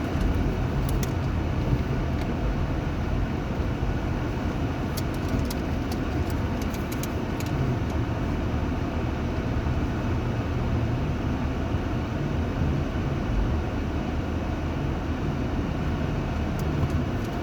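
Steady low rumble of a motor vehicle, with a few faint ticks and clicks about five to seven seconds in.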